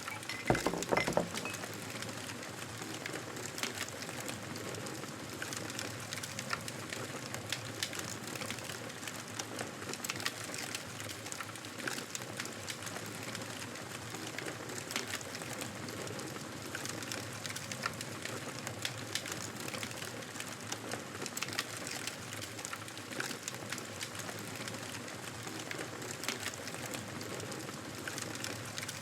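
Wood fire crackling in a fireplace: a steady soft hiss with frequent small snaps and pops, a few louder pops in the first second.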